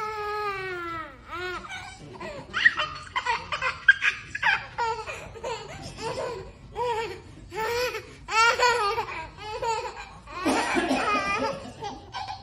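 A person laughing hard in a long run of pitched bursts, opening with a long falling vocal glide.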